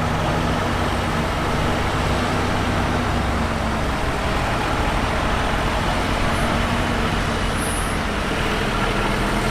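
Heavy diesel engine of earthmoving equipment running steadily under load, a constant low engine hum beneath dense mechanical noise.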